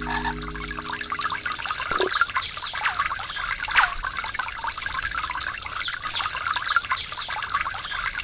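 Waterfall water splashing and trickling, with many small bubbly plops and drips. A held music chord fades out about a second and a half in, leaving the water alone.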